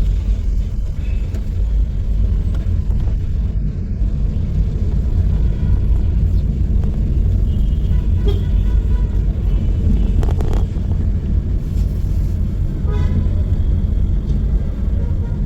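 City road traffic: a steady, heavy low rumble of vehicles, with faint car horn toots now and then.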